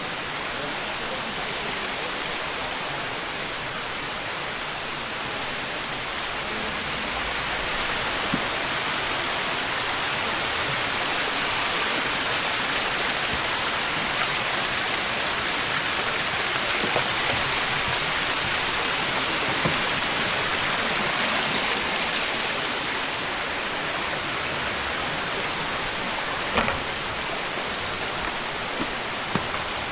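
Steady rush of flowing water, growing somewhat louder through the middle stretch, with a few faint knocks near the end.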